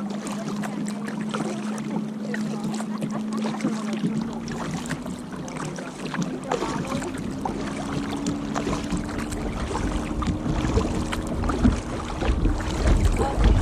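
Kayak paddle strokes in the water, with splashes and drips, over a steady low hum that slowly rises in pitch. Wind buffets the microphone near the end.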